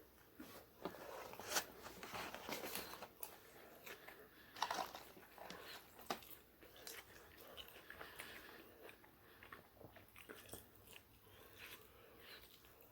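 A person biting and chewing fast food, with irregular crunchy bites and the loudest bites about one and a half and four and a half seconds in.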